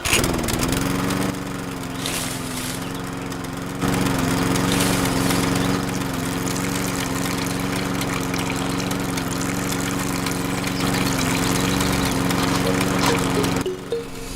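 A small motor starts, its pitch rising briefly, then runs at a steady hum and stops near the end.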